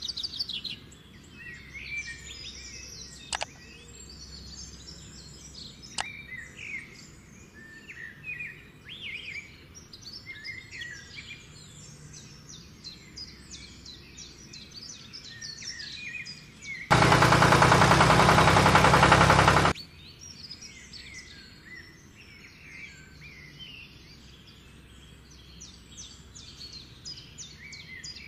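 Small birds chirping and calling on and off throughout, with two sharp clicks in the first few seconds. About two thirds of the way in, a loud burst of noise lasts about three seconds, then cuts off suddenly.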